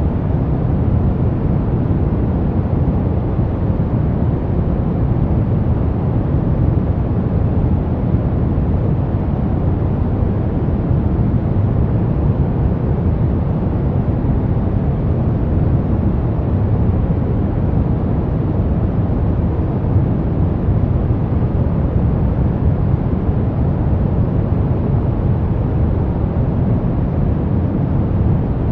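Brown noise: a steady, deep rumbling hiss, strongest in the bass and thinning toward the highs, with no change in level.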